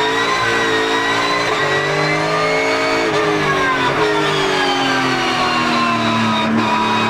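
Porsche GT3 Cup's flat-six race engine pulling up through the revs for about three seconds, then falling away steadily as the car slows and levelling off near the end, with the whine of its straight-cut sequential gearbox.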